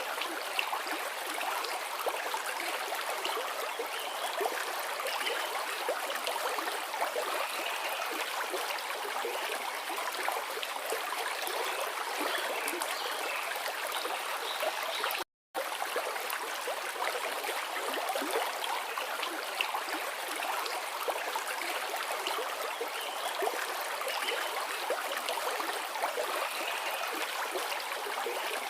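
A forest river flowing: a steady rush of water with fine trickling. The sound cuts out completely for a split second about halfway through.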